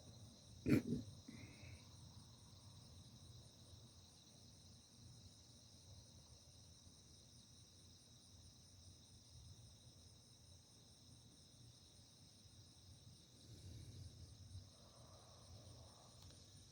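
Steady high-pitched chorus of night insects, crickets chirring without a break. A sharp, loud sound breaks in about a second in, and a faint low rumble comes near the end.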